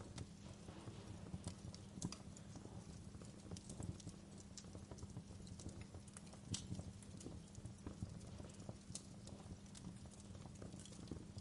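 Wood fire in a fireplace crackling: irregular snaps and pops, a few louder than the rest, over a low steady rumble of the flames.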